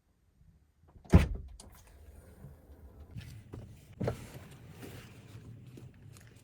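A loud, sharp thump about a second in, followed by rustling and handling noise, with a second, softer thump about four seconds in.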